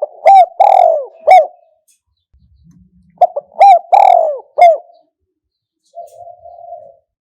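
Spotted dove cooing: two loud phrases of three or four short coos, one right at the start and one about three seconds in, each with a longer middle note that falls in pitch. A soft, rough purring note comes before the next phrase near the end.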